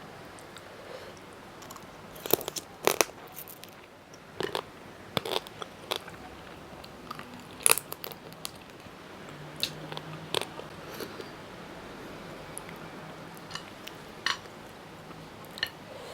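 Close-miked eating of spicy mango salad with grilled chicken and sticky rice: crisp, crunchy bites and chewing, with about a dozen sharp crunches at irregular intervals, the loudest near the middle.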